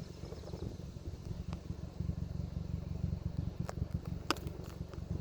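Wind buffeting the microphone: a gusty low rumble, with two sharp clicks near the end.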